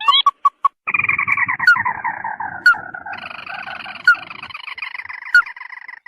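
Recorded crake (burung tikusan) lure calls. A few short sharp ticks are followed, about a second in, by a long rapid trill that slides downward in pitch. A second, steadier trill overlaps it from about halfway through, and the sound cuts off abruptly.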